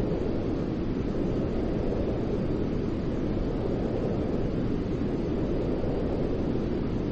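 Steady white noise for soothing a baby to sleep: an even, unbroken rush that is deep and rumbling, weighted toward the low end.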